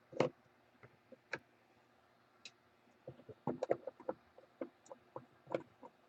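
Scattered light clicks and taps of trading cards being handled, with a quick cluster of them about three and a half seconds in.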